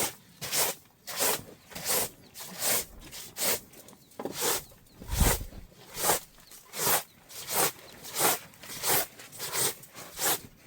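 Steady rhythmic scraping strokes, about three every two seconds, with a single low thump about five seconds in.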